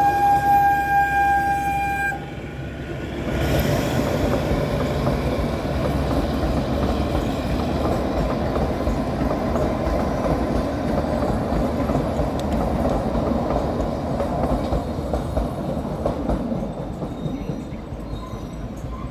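Narrow-gauge toy train on the Kalka–Shimla line. The diesel locomotive's horn holds one steady note and cuts off about two seconds in. The coaches then rumble past on the track for most of the time and fade out near the end.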